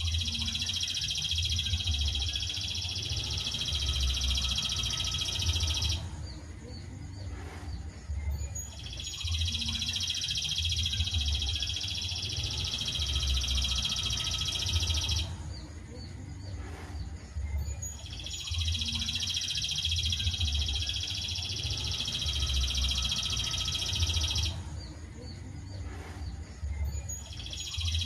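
Songbird training recording (masteran) of a dense, high continuous trill, sung in stretches of about six seconds with short pauses between, repeating about every nine seconds.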